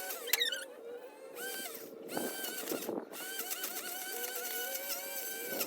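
A small motor or engine running, its steady whine dipping in pitch and recovering several times.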